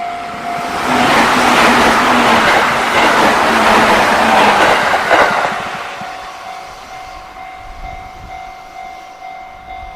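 Level crossing alarm ringing steadily while a JR Central electric train passes. The train's rushing, rumbling noise swells about a second in, covers the bell, and fades from about five and a half seconds. The crossing bell rings on after the train and stops near the end.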